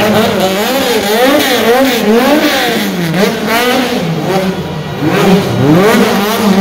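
Car engine revved hard over and over, its pitch rising and falling about twice a second.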